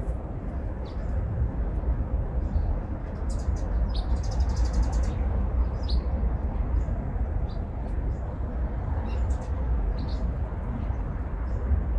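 Small birds calling in short, high chirps, with one fast buzzy trill about four seconds in, over a steady low outdoor rumble.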